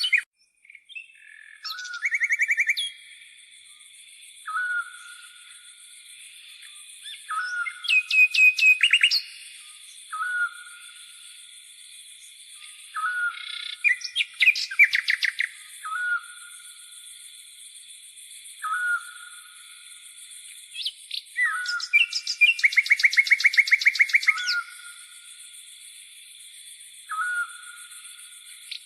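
Songbirds calling: a short, hooked whistled note repeated every two to three seconds, broken by fast rattling trills, the longest lasting about three seconds near the end. Behind them runs a steady, high-pitched insect buzz.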